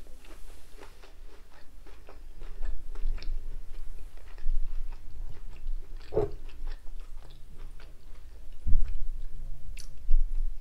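A person chewing chips close to the microphone, with many small wet mouth clicks and crackles. A dull thump sounds about three-quarters of the way through.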